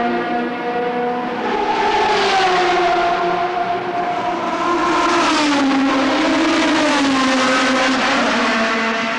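GT race car engines at speed, more than one at once, their notes rising and falling as the cars pass and change gear.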